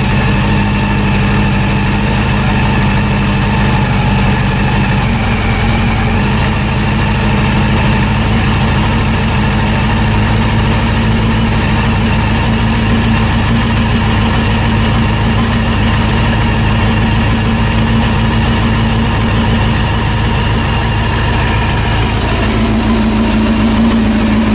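Freshly rebuilt Honda CB400 four-cylinder engine running steadily at idle, with a slight change in its tone near the end. It runs smoothly, without the bad engine noise it had before the rebuild.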